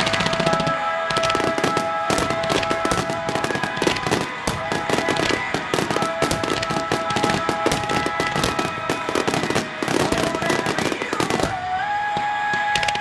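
Fireworks bursting and crackling in quick, dense succession, over music with long held notes.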